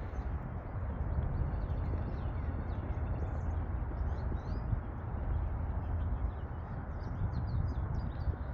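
Small birds chirping with short, quick high notes, more of them in the second half, over a steady low rumble.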